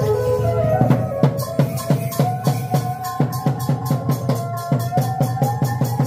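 Chhay-yam music: drums beating a quick, steady rhythm of about four strokes a second, with bright cymbal crashes, under a held melody line that glides up and down.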